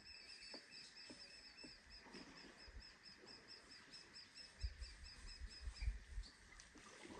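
A bird calling faintly in a steady series of short chirps, about four or five a second, which stops about halfway through. Low rumbling thumps come in near the end and are the loudest thing.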